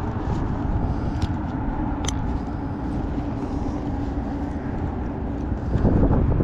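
Strong wind buffeting the microphone in a dense low rumble, with a steady low hum underneath through the middle and a few sharp clicks.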